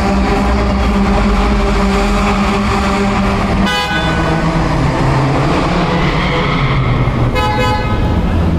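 Car engines running steadily, with two short car-horn toots: one about four seconds in and a slightly longer one near the end.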